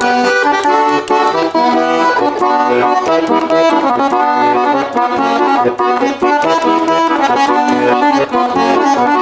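Bayan (Russian button accordion) playing a lively instrumental interlude of a cheerful folk-style song, a quick run of melody over chords.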